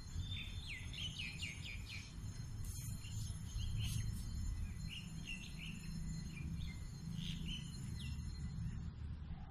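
Small birds chirping. A fast run of about six quick, downslurred notes comes in the first two seconds, then scattered chirps follow, over a steady low rumble.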